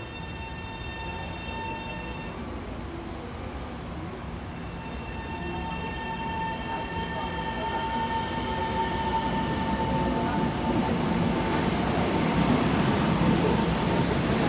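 Taiwan Railways EMU700 electric multiple unit pulling out of an underground station, its running noise growing steadily louder as it gathers speed. A steady high-pitched tone sounds over it for the first couple of seconds and again for several seconds in the middle.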